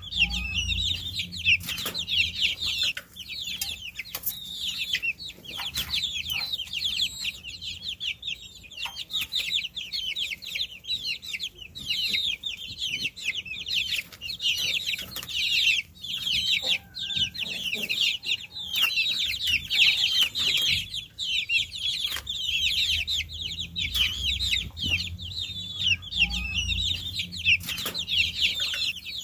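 A brood of baby chicks peeping continuously, many high-pitched chirps overlapping into a constant chorus.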